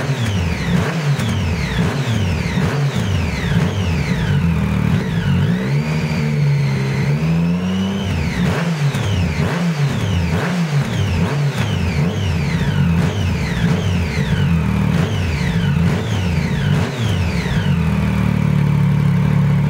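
Triumph Street Triple 675 inline-three engine through an SC-Project GP M2 3-1 full exhaust with a carbon silencer, revved in repeated quick throttle blips that each fall straight back. Midway there is one slower rise and fall of the revs, and near the end it settles to a steady note.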